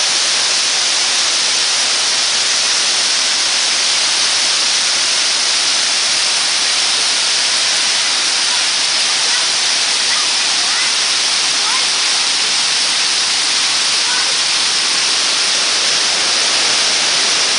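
Waterfall: a steady, loud rush of falling water that holds unchanged throughout.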